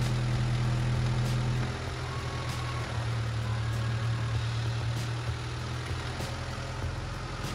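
Car engine idling with no oil in it, a bolt just dropped in through the oil filler on top of the head: a steady low hum that dips slightly in pitch and level a couple of seconds in, with a faint click about every second and a quarter. The engine keeps running despite the oil starvation.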